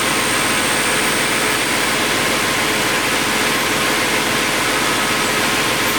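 Logging truck's diesel engine idling steadily, with a fine, even pulse.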